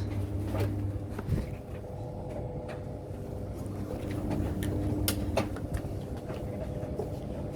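Bosch Classixx 7 condenser tumble dryer running: a steady low motor hum with the drum turning. A few sharp clicks and knocks land at intervals, the loudest about five seconds in.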